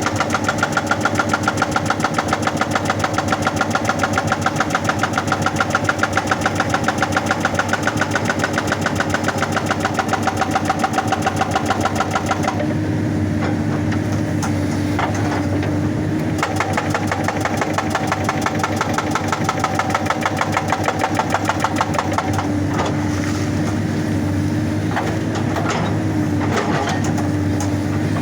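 Excavator-mounted hydraulic rock breaker hammering in fast, even blows over the excavator's diesel engine. About twelve seconds in the hammering stops, and the engine runs on with a few separate knocks.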